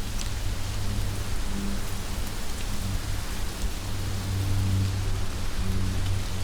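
Heavy rain falling steadily: a dense, even hiss with scattered drop ticks. A low hum comes and goes underneath.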